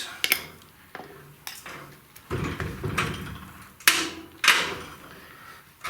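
A few separate knocks and clatters of hard parts and tools being handled and set down while bearings are readied for packing with grease.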